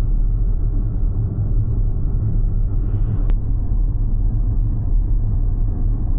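Steady low rumble of road noise inside a moving vehicle.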